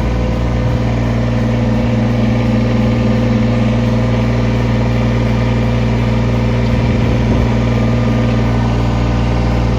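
Kubota BX23S compact tractor's three-cylinder diesel engine running steadily at an even speed.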